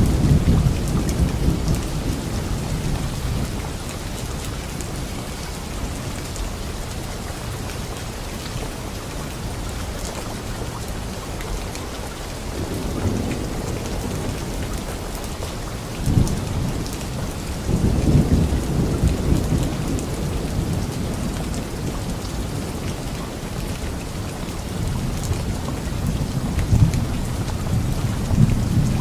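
Steady rain falling on leaves during a light rainstorm, with low rolls of thunder swelling and fading several times. The strongest rumble comes a little past the middle.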